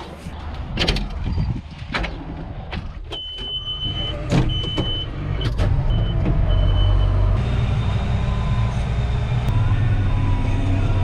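Combine harvester engine running as the machine is backed in, growing louder about seven seconds in. A few knocks come early, and a high beeper sounds about five times in uneven beeps in the middle.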